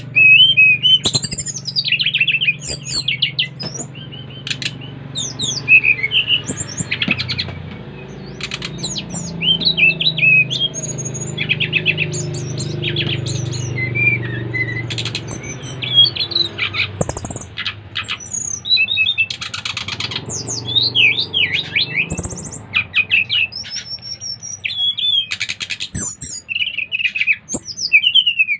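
Several SRDC (sikatan rimba dada coklat, a jungle flycatcher) singing hard, with quick phrases of high whistles and sweeping chirps overlapping one another. A steady low hum runs underneath.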